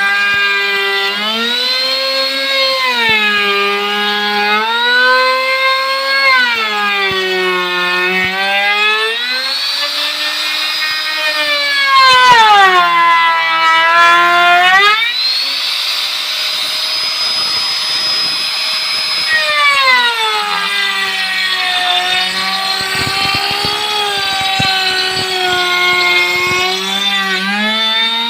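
Electric drill motor running continuously, its pitch sliding up and down every few seconds as the speed changes, held highest for a few seconds past the middle.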